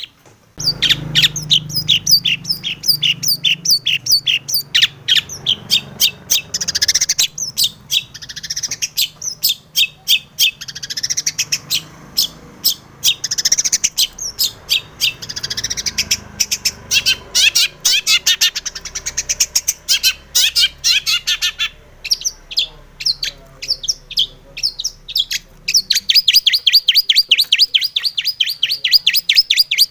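Long-tailed shrike (cendet) in full song: a loud, rapid, chattering run of sharp repeated notes and trills, changing phrase every few seconds, a varied song filled with mimicked phrases.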